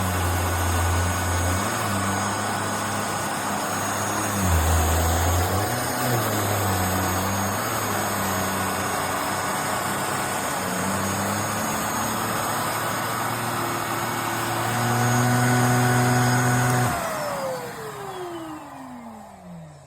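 HYCHIKA handheld mattress vacuum running at full suction: a steady rushing whine with a low hum that shifts in pitch now and then. About 17 seconds in it is switched off, and the motor winds down with a falling whine over a few seconds.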